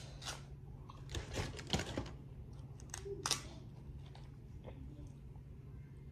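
Chewing, with short crinkles of a clear plastic takeout bag holding seafood boil. The loudest sounds come about one to two seconds in and again just after three seconds.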